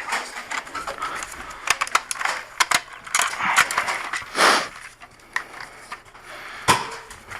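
Plastic clicking and clattering of a Nerf blaster and its darts being handled, irregular clicks throughout, with a short whoosh about four and a half seconds in.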